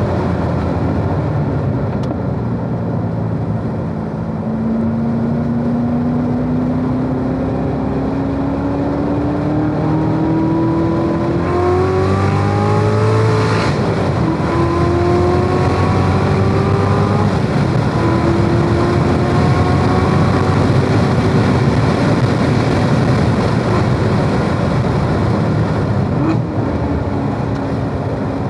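A 2017 Corvette Z06's supercharged 6.2-litre V8, heard from inside the car, pulling hard with its pitch climbing steadily through a gear. About halfway through, an upshift cuts the pitch sharply, and it climbs again. Near the end it eases off and drops as the car slows for a corner, with steady road and wind noise throughout.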